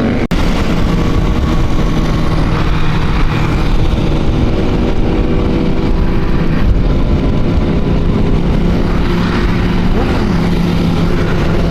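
Motorcycle engines running steadily on the move, with a thick rumble of wind and road noise; the sound drops out briefly just after the start.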